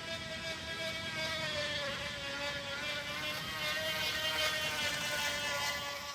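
Crumpled plastic water bottle held against a spinning bicycle tyre, buzzing steadily like a small motorcycle engine. Its pitch dips slightly about two seconds in, then holds, getting a little louder near the end.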